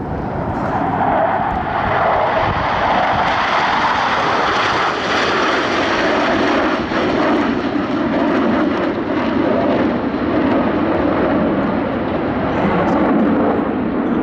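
Blue Angels F/A-18 Super Hornet jets flying past in formation. Their engines make a loud, steady rushing noise whose pitch falls over the first several seconds as the jets go by.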